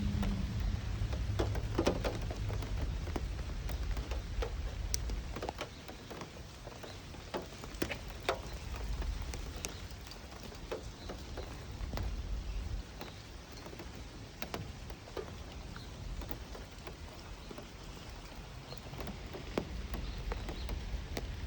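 Irregular light taps and ticks, like drops falling on a hard surface, over a low rumble that comes and goes.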